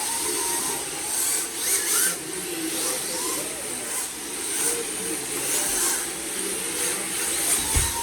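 RC drift cars running on the track, their electric motors whining up and down in pitch with the throttle over a hiss of sliding tyres. A low thump comes near the end.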